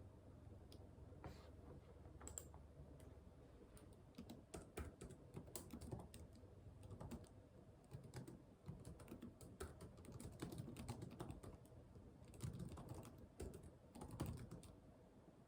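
Soft typing on a computer keyboard: irregular keystrokes coming in quick runs, busiest about four to seven seconds in, around ten to eleven seconds, and again near the end.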